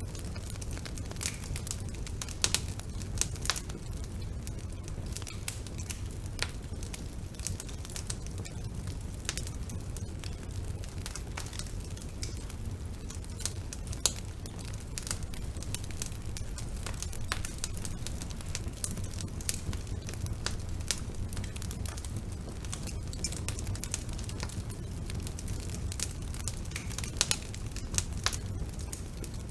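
Wood fire burning in a fireplace: a steady low rumble of the flames with constant crackling and occasional louder pops, several of them about 2.5 s, 3 s and 14 s in and near the end.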